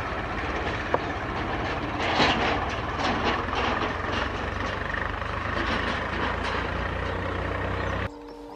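Passenger train hauled by ALCo diesel locomotives running away: a steady low diesel drone under repeated wheel clicks and clatter on the rails. The sound cuts off abruptly near the end to a much quieter scene with a faint held tone.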